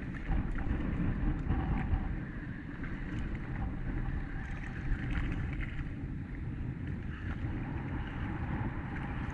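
Strong wind buffeting the microphone, a steady low rumble, with a few faint ticks above it.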